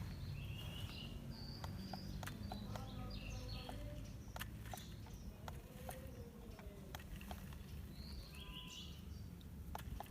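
Faint outdoor ambience: a few short bird chirps, scattered small clicks and a steady low rumble.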